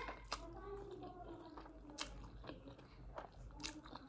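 A person chewing and biting food close to the microphone, quiet and wet, with a few sharp crunchy clicks, about a third of a second in, around two seconds in and near the end.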